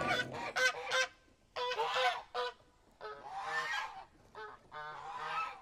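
Geese honking, a run of loud harsh calls coming one after another in several bursts.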